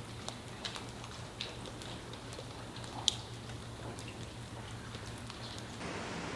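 Irregular drips and ticks, like water dripping inside an empty building, over a steady low hum, with one sharper tick about three seconds in. Near the end it cuts to an even rushing noise.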